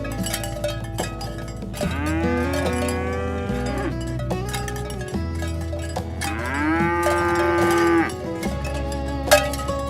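Cows mooing: two long moos, one about two seconds in and a louder one about six seconds in, each rising then holding, over background music with plucked notes.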